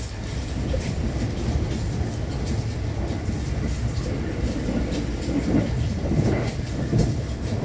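JR West Thunderbird limited express train running on the rails: a steady low rumble of the wheels, with irregular knocks and clatter, busier in the second half.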